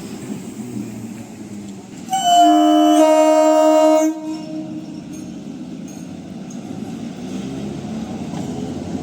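EMU local train's horn sounding once for about two seconds, starting a couple of seconds in and cutting off sharply, over the steady rumble of the train running on the track.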